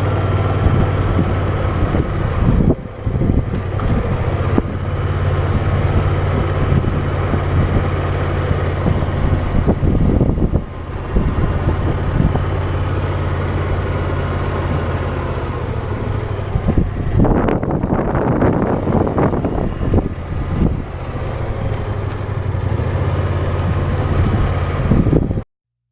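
Motorcycle engine running with a steady low hum, wind rushing over the microphone and surging in gusts, strongest about two-thirds of the way through. The sound cuts off suddenly near the end.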